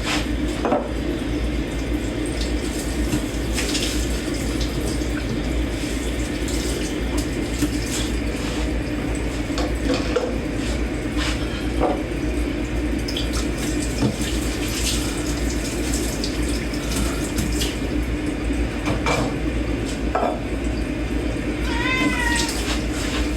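Dishes washed by hand at a kitchen sink: tap water running steadily, with scattered clinks of dishes and cutlery. A cat meows once near the end.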